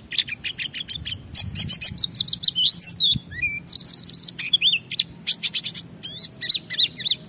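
White-eye (pleci) singing a long, fast, unbroken song of rapid chirps, trills and short rising and falling whistles: the full 'ngalas' song that keepers play to get other white-eyes to answer and sing.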